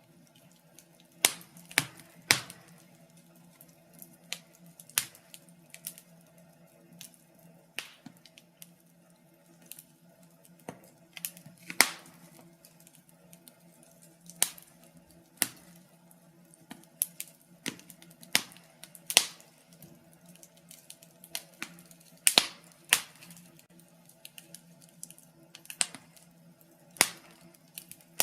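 Wood fire in a fireplace crackling, with irregular sharp pops and snaps about one to three a second, some much louder than others, over a faint steady hum.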